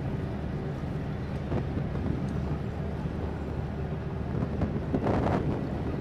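Steady low hum of a ship's engine, with a brief louder burst of sound about five seconds in.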